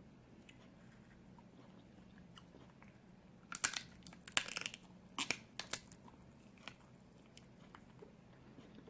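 Snow crab leg shells cracking and crunching as they are broken open and eaten. There is a cluster of sharp cracks starting about three and a half seconds in and lasting a couple of seconds, then a few faint clicks.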